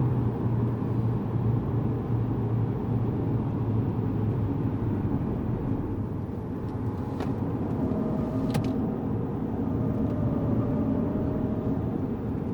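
Lexus GS200t's 2.0-litre turbocharged four-cylinder engine and road noise running steadily from inside the cabin as the car drives on the track. Two faint clicks come about seven and eight and a half seconds in.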